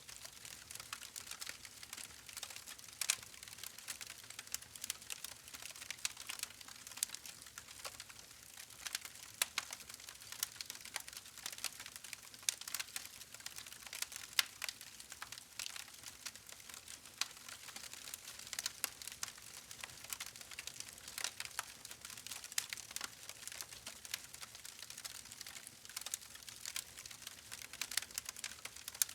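Wood fire crackling: a steady hiss of burning with frequent irregular sharp pops and snaps.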